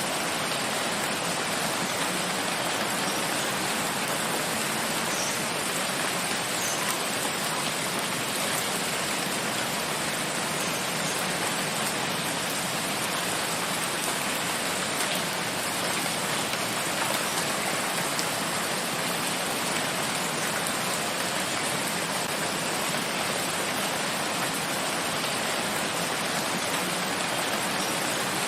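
Steady rain falling in a forest, an even hiss of countless drops without pause.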